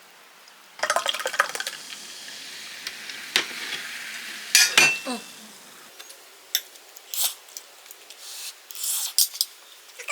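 Handling clatter: irregular clicks and knocks of objects being moved about, with a hissing stretch about a second in and the loudest knocks near the middle.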